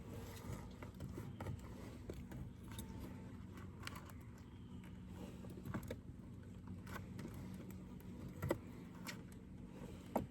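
Wooden Layens hive frames being worked loose and lifted from the hive box: faint scattered clicks and knocks, with a couple of sharper knocks near the end.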